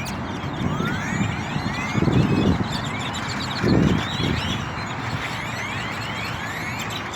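A large flock of birds calling over one another in many short, rising chirps. Two brief low rumbles come about two and four seconds in.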